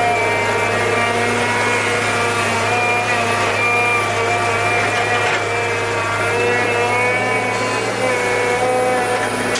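Small chainsaw engine running at a steady speed, its pitch wavering slightly.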